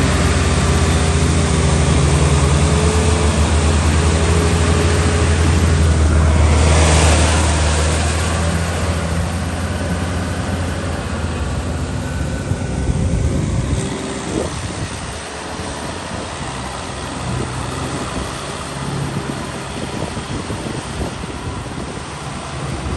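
Tractor engine running with a steady, deep note that fades away over the second half, leaving wind noise and a faint engine sound.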